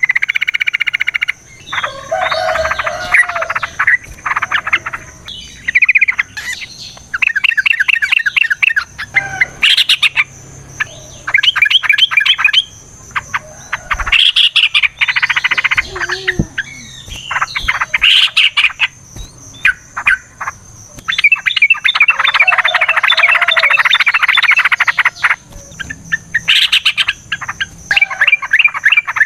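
Yellow-vented bulbuls (trucukan) singing in loud, rapid chattering trills that come in bursts of one to several seconds with short pauses between them: the excited, combative calling used as a lure to make other bulbuls answer.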